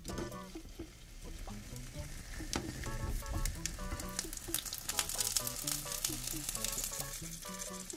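Food frying in a pan: a steady sizzle that grows louder about two seconds in, with scattered clicks of a utensil stirring. Background music with a plucked melody plays throughout.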